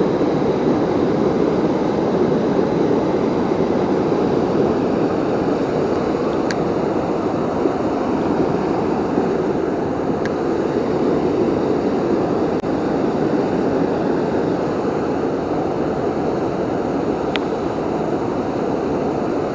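Waterfall roaring: a steady rush of falling water, with a few faint ticks over it.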